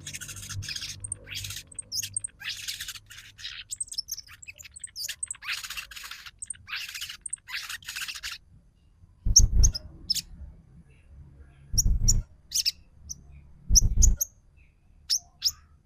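Sogon trotol calls used as a lure to set other birds singing: rapid raspy chattering calls over the first half, then short sharp high notes. Four dull thumps, the loudest sounds, come in the second half.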